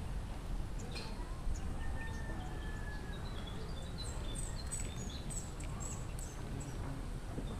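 Small birds chirping faintly, with a quick run of high chirps about four to six seconds in, over a low steady rumble.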